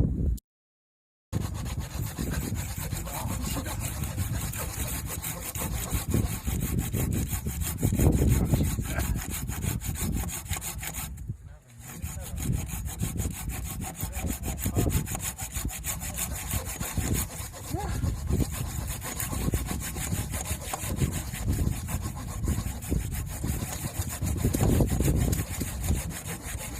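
Hand saw cutting through a log for firewood, a steady run of rasping strokes. It breaks off twice: fully for a moment about a second in, and briefly near the middle.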